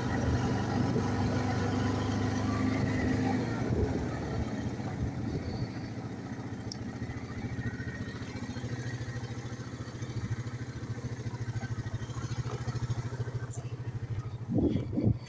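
ATV engine running steadily, then easing off to a lower, even idle after about four seconds. A couple of brief thumps come near the end.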